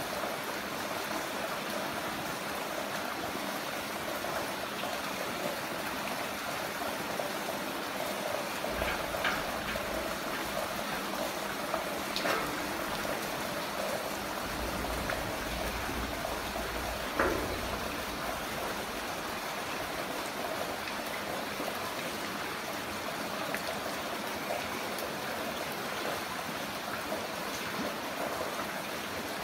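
Heavy rain falling steadily, a continuous wash of water with a few sharper drips or splashes. A low rumble runs underneath for several seconds midway.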